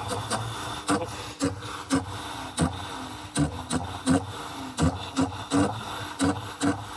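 Hyundai Tiburon engine running with a rough, uneven idle: sharp pops and stumbles come at irregular intervals, roughly every half second, over a steady running hum. This is the sign of a bad misfire.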